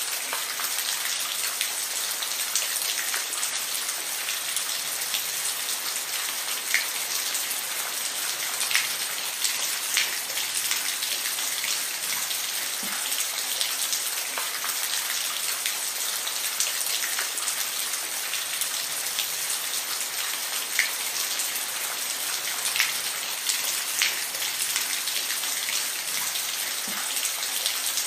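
Steady rain falling, an even hiss with scattered sharper drop ticks landing on a surface.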